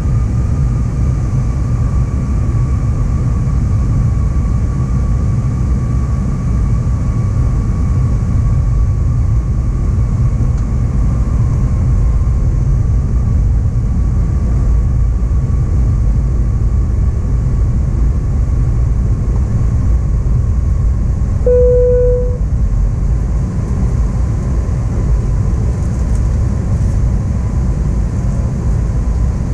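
Cabin noise of an Airbus A321 with IAE V2500 engines during the approach: a steady low rumble with an engine whine that slowly drops in pitch. About three quarters of the way through, a single short cabin chime sounds.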